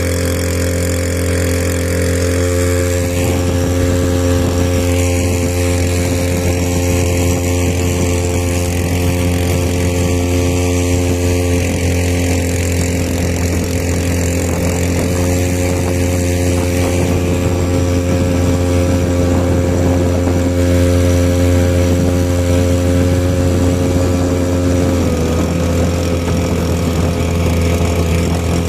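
Small 2-horsepower outboard motor running steadily with the boat under way. Its pitch dips slightly near the end.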